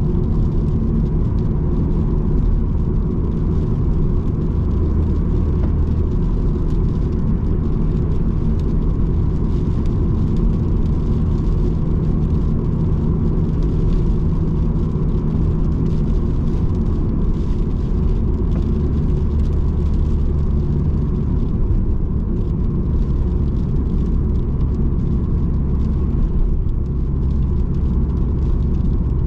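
Subaru Impreza GDB's turbocharged flat-four boxer engine and tyre noise heard from inside the cabin while cruising at a steady speed. The engine note shifts slightly past the middle as the revs change.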